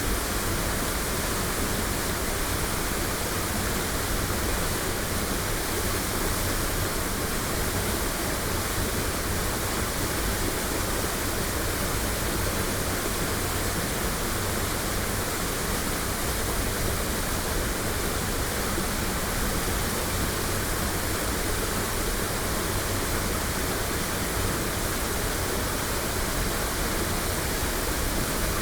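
Waterfall: a steady, unbroken rush of falling water that does not change over the whole stretch.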